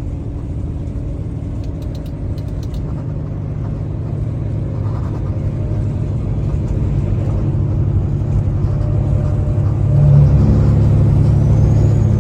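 Semi truck's diesel engine running on the road, a low steady rumble that gradually grows louder, with a step up about ten seconds in.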